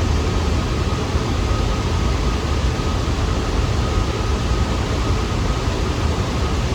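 New York City subway train running with a steady, loud rumble and rail noise, with a faint steady whine above it.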